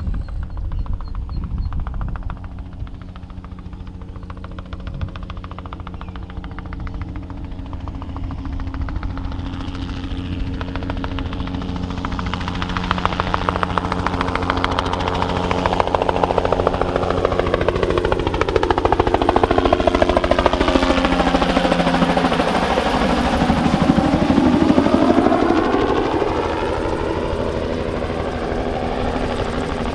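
Bell 206B-3 JetRanger III helicopter flying a spraying pass, its two-blade main rotor beating rapidly over the turbine's running. It grows steadily louder as it comes in, is loudest about twenty-four seconds in as it passes closest, then fades a little.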